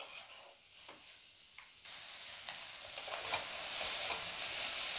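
Spatula stirring a dry fry of small prawns in a metal kadai, with a few soft scraping strokes. From about two seconds in the sizzle of the prawns and masala frying rises and holds steady.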